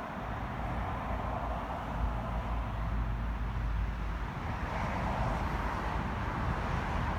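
Honda CB500X parallel-twin engine idling steadily through an aftermarket Fuel carbon-can exhaust, giving a low, even rumble.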